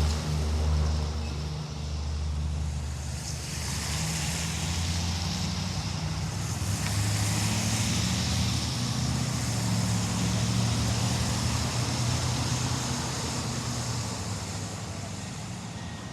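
Heavy road vehicle's engine running at a low, steady pitch with tyre and road noise that swells in the middle and eases off near the end, as it drives by.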